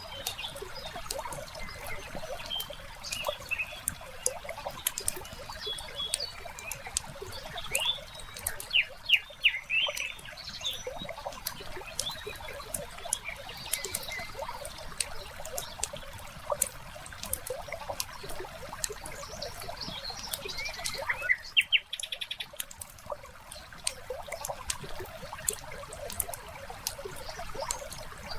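Wood fire crackling with frequent sharp pops and snaps, layered with birds chirping and a soft trickle of water. The mix briefly drops out about three quarters of the way through.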